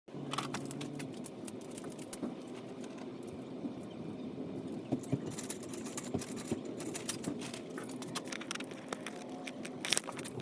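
Many irregular light clicks and rattles over a steady low background hum, growing denser in the second half.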